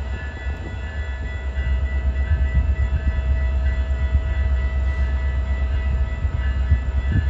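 Train rolling past: a steady low rumble of rail cars on the track, growing a little louder about two seconds in, with faint steady whining tones above it.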